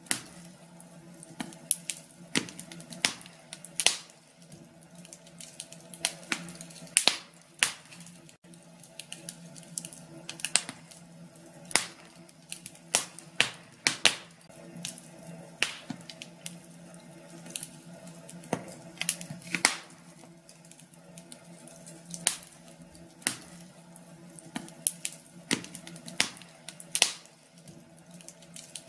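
Wood fire in a fireplace crackling, with irregular sharp pops and snaps, some louder than others, over a faint steady hum.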